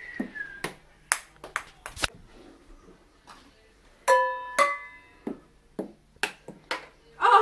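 Ping pong ball bouncing down stairs in a run of light, quick clicks, then striking the cups about four seconds in with two ringing pings.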